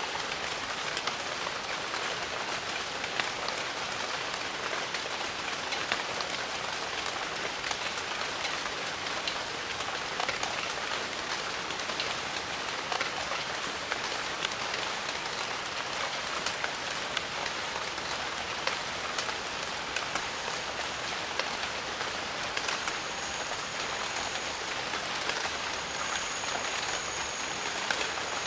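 Steady rain in a jungle, a dense even hiss with many separate drops ticking close by. About two-thirds of the way in, a thin, steady high-pitched tone joins the rain and holds to the end.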